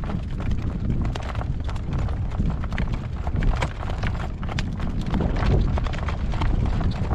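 Hooves of a harnessed horse clip-clopping steadily on a road as it pulls a cart, over a low rumble of wind on the microphone.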